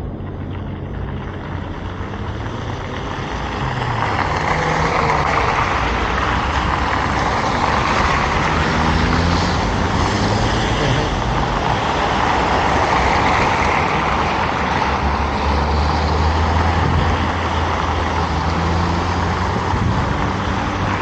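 Road traffic passing: engine noise and tyre rush that grow louder about four seconds in, with the low engine drone of heavy vehicles shifting in pitch.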